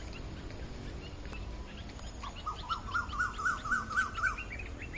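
A bird calling in a quick series of short, rising notes, about four a second, starting a little before halfway and ending with a few higher notes, over a low steady background rumble.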